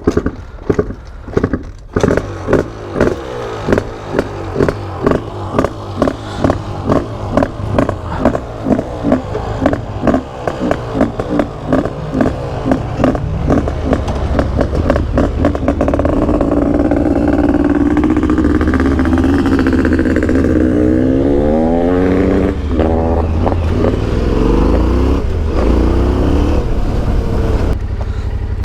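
Yamaha Ténéré 700's parallel-twin engine under way. Its pulses quicken through the first half, then it runs steadily, with the pitch rising and falling a few times about two-thirds of the way in.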